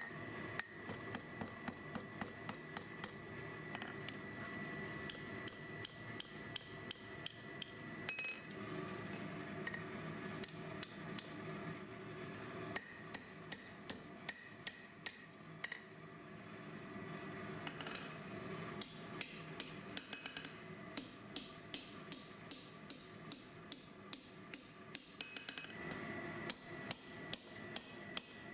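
Blacksmith's hammer striking steel on an anvil in runs of quick blows with short pauses: hand forging.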